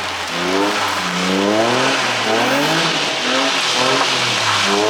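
Drift car's engine revving in repeated rising sweeps as the driver works the throttle, over a steady hiss.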